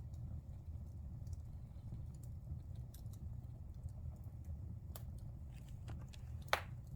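Wood fire burning in a fireplace: a low steady rumble of flames with scattered small crackles, and one louder, sharper pop near the end.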